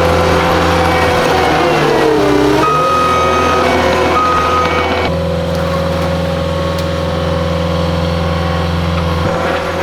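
Heavy equipment engine running steadily, dropping in pitch under load for a moment about two seconds in, then recovering. A backup alarm beeps twice a few seconds in.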